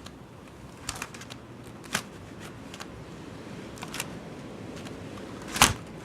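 Steady hiss of blizzard wind, broken by a handful of sharp clicks and knocks; the loudest knock comes near the end.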